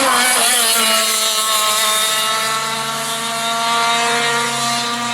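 Racing go-kart's small engine running at high revs on the track, its pitch wavering in the first second and then holding steady, fading slightly near the end.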